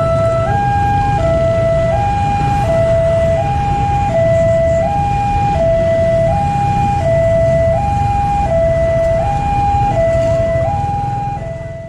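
Two-tone hi-lo siren, alternating between a lower and a higher note about every 0.7 seconds, over a steady low rumble; it fades near the end.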